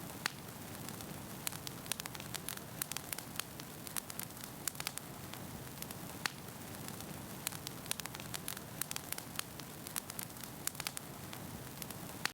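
Wood fire burning with a steady low rush and frequent sharp, irregular crackles and pops.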